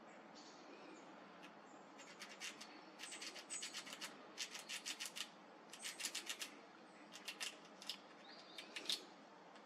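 Squirrel gnawing on a nut: teeth scraping the shell in repeated bursts of rapid clicks, about six bursts starting about two seconds in. Faint bird chirps in the background.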